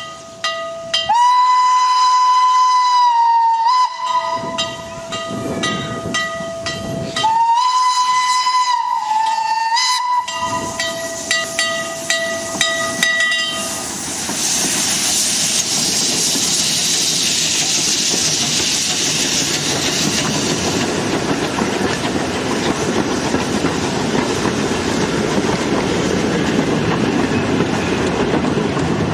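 Steam locomotive whistle sounded in two long blasts, about three seconds each, over a steady lower whistle tone. About halfway through this gives way to a train running close by, with steam hissing and the wheels clattering on the rails.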